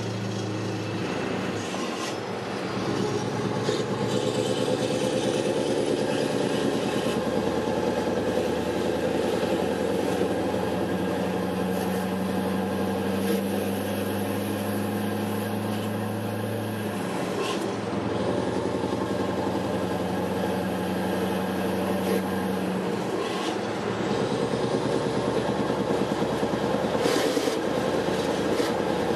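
Scania R500 truck's V8 diesel engine running as the truck drives along; the engine note drops out briefly twice and comes back at a new pitch in the second half.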